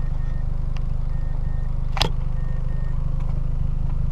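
Four-cylinder engine of a 2006 NC Mazda MX-5 Miata idling with a steady, even low rumble. A faint beep repeats several times, and a single sharp click comes about two seconds in.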